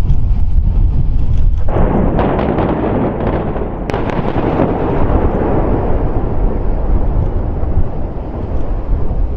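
Explosive demolition blast: a sudden loud boom about two seconds in, a run of sharp cracks with a stronger one about four seconds in, then a long rumble dying away, over steady wind noise on the microphone.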